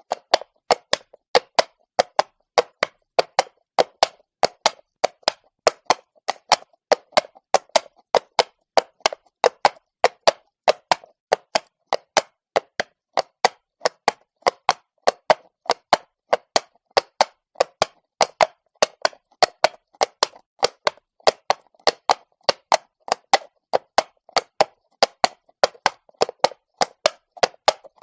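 Horse's hooves walking on cobblestone: a steady train of sharp clip-clop strikes, about three a second.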